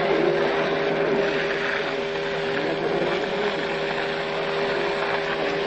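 Engine running steadily at a constant speed, with an even droning hum.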